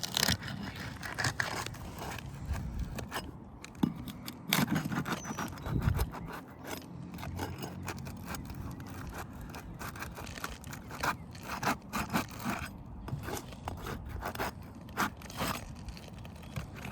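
Irregular scraping, clicks and knocks of tools and hands working on asphalt roof shingles, with a few heavier thuds about four to six seconds in.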